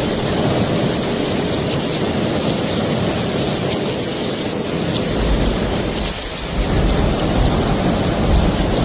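Steady heavy rain, with a low rumble of thunder coming in a little past halfway and continuing.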